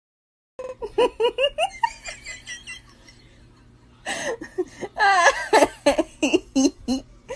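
High-pitched laughter that starts suddenly about half a second in as quick rhythmic bursts. It eases off briefly, then comes back louder and longer from about four seconds in.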